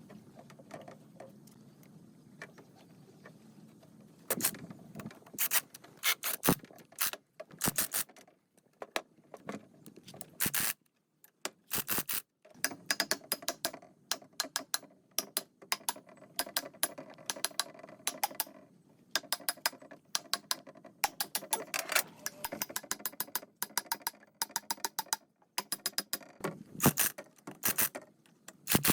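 Metal parts and hand tools clicking and clinking in quick clusters with short pauses, as parts are handled and fitted. A faint low hum sits under the first few seconds.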